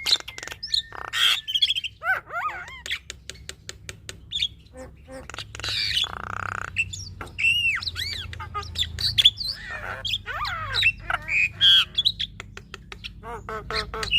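Female Javan myna singing a busy, varied song of short gliding whistles, rapid clicking runs and harsh squawks, one of them drawn out for about a second around the middle.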